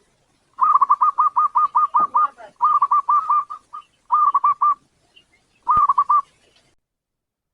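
Zebra dove (local perkutut) singing: four phrases of quick, evenly spaced cooing notes, about eight a second, the first phrase the longest and the later ones short.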